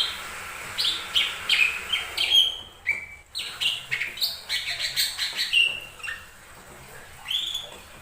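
Cucak ijo mini (lesser green leafbird) singing: a fast run of short, sharp chirping notes, several a second, thinning out towards the end with one last note.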